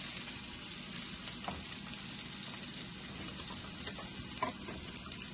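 Pan on the stove sizzling steadily with a few faint clicks.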